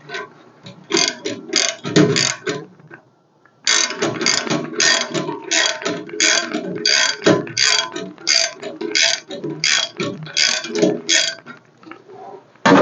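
Ratchet wrench with a 1-1/8 inch socket clicking in quick back-and-forth strokes, about three a second, with a short pause about three seconds in.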